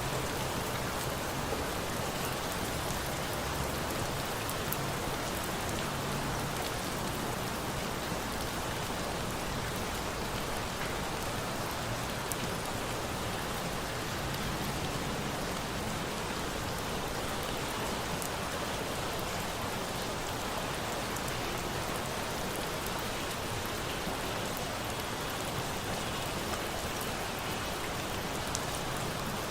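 Steady rain falling, with scattered small crackles of a wood fire.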